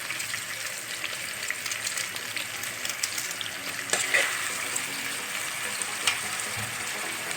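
Chopped onion frying in oil in a pan: a steady sizzle with fine crackling, and a few louder clicks about four and six seconds in.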